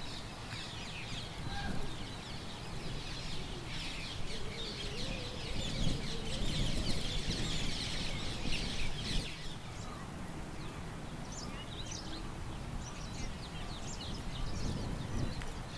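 Many small birds chirping and twittering over a low rumble of wind, the chirping densest in the first half and thinning out after.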